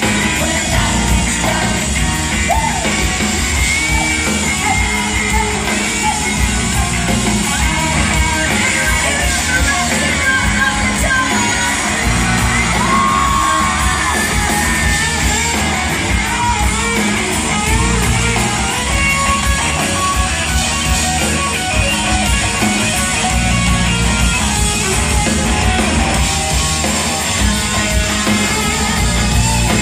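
Live pop-rock band playing loudly with guitar, drums and singing, over an audience yelling.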